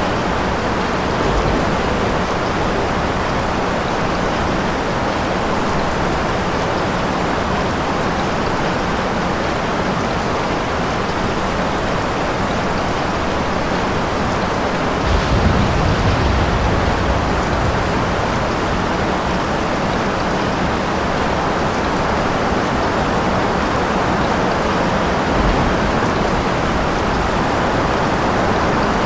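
Steady heavy rain falling, with a low rumble of thunder about halfway through.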